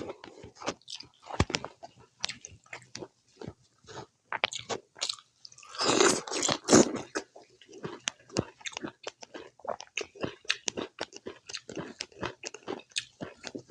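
Close-miked eating of pork curry with rice: chewing and biting with many short wet mouth clicks and smacks, and a louder, noisier stretch about six seconds in.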